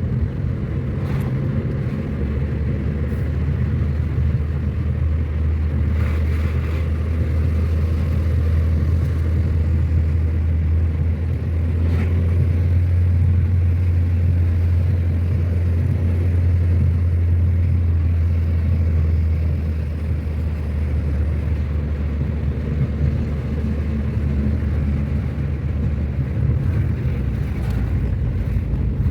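A car driving, with a steady low rumble of engine and road noise that grows stronger a couple of seconds in and eases off a little past the middle.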